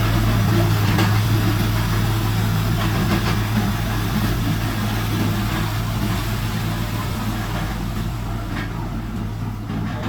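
Heavy diesel engine of an earthmoving machine running steadily with a deep drone, slowly getting a little quieter.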